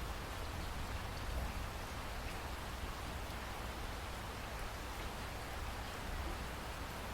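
Steady rain with scattered drips landing on a surface, under a low rumble.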